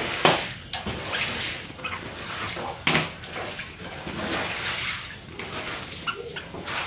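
Sooty-headed bulbul (kutilang) singing: a quick, irregular run of short, harsh chirps and notes.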